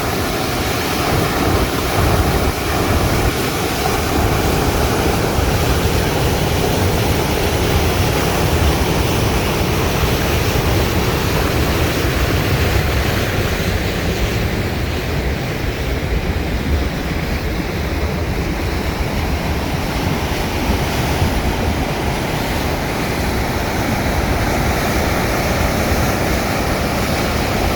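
Steady rush of the high Arkansas River running bank-full near flood stage at the irrigation headgates, with wind buffeting the microphone.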